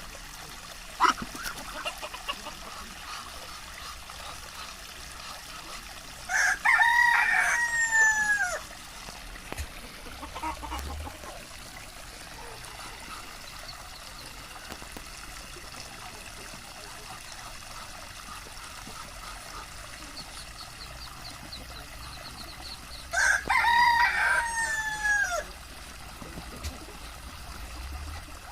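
Rooster crowing twice, about fifteen seconds apart; each crow lasts about two seconds and falls in pitch at the end. A single sharp click comes about a second in.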